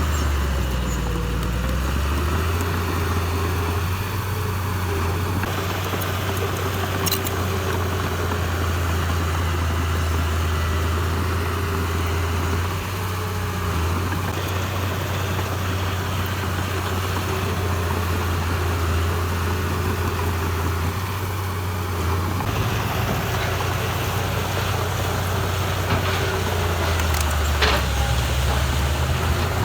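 Heavy diesel engine of construction machinery running steadily, with a couple of brief clanks.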